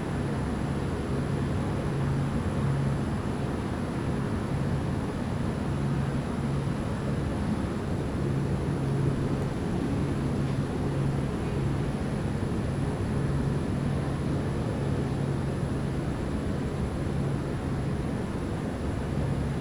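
Steady rush of wind and rain in a thunderstorm, with a low hum that fades in and out.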